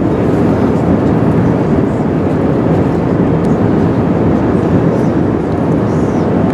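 Steady cabin noise inside an Airbus A380 on final approach, with landing gear and flaps extended: an even rushing of air and engine sound.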